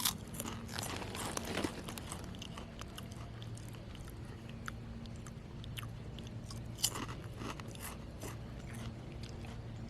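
A person biting into and chewing a wavy potato chip, with sharp crisp crunches that are densest in the first two seconds and again about seven seconds in.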